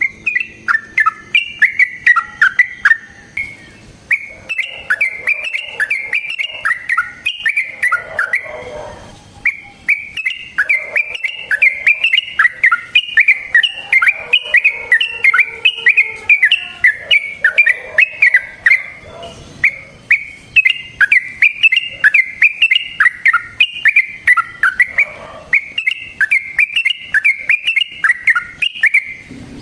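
Yellow-vented bulbul (trucukan) singing long, fast runs of short chattering notes, several a second, broken by a few brief pauses.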